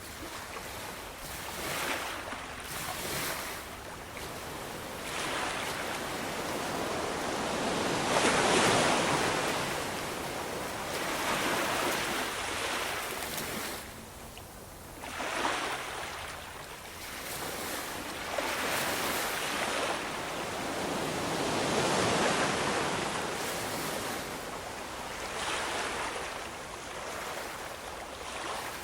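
Ocean waves breaking and washing on the shore in repeated surges, each swelling to a rush and then fading, with the loudest a few seconds apart.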